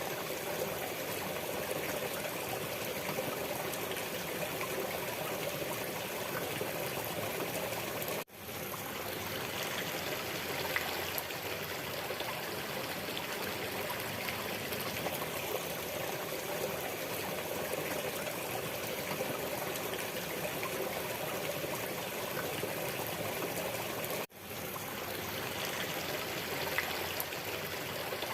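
Waterfall water rushing steadily. It cuts out abruptly twice, about 8 and 24 seconds in, each time fading straight back in.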